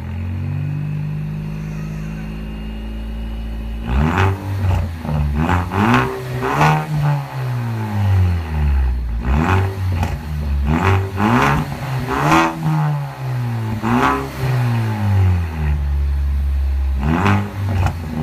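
2013 Ford Focus ST's turbocharged 2.0-litre four-cylinder exhaust with the electric cutout open, running straight through a resonator-delete straight pipe. It idles for about four seconds, then is revved in a quick series of blips, each rising and falling back, and settles back to idle near the end.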